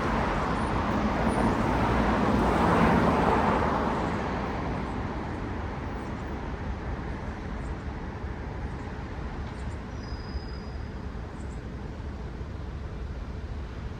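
City road traffic: a car passes close by, loudest about three seconds in, and fades into a steady, quieter hum of distant traffic.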